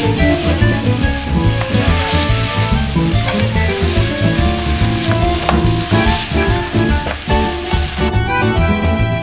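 Chicken pieces with chopped onion and parsley sizzling in oil in a frying pan while a wooden spatula stirs them, with background music underneath. The sizzle stops near the end, leaving the music.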